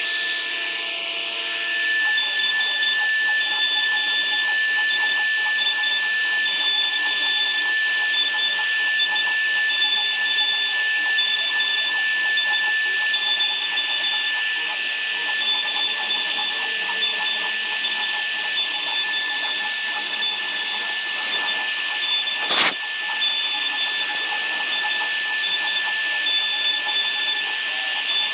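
Power tool running steadily: a high whine over a constant hiss, with a fainter second tone coming and going and one sharp click about 22 seconds in.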